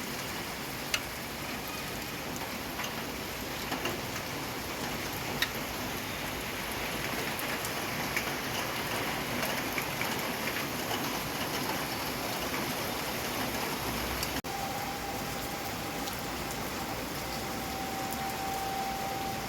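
Steady rain falling, with single drops striking a surface now and then as sharp clicks. About three-quarters of the way through the sound cuts out for an instant, and afterwards a faint steady tone sits under the rain.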